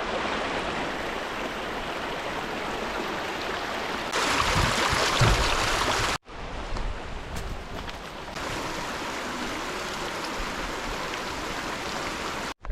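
Steady rushing noise of flowing water, swelling louder for a couple of seconds before an abrupt cut about six seconds in, then running on evenly.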